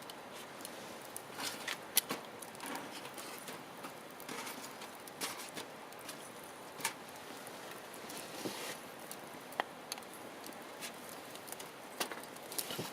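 Wood campfire crackling: irregular sharp snaps and pops over a soft hiss, the loudest pop about two seconds in.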